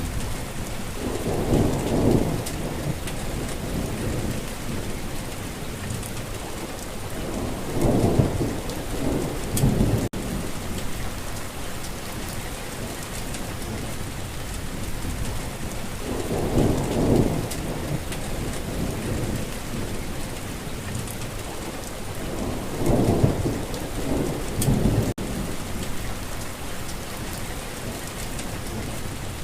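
Steady rain falling, with low rolling thunder that swells up four times and fades back into the rain.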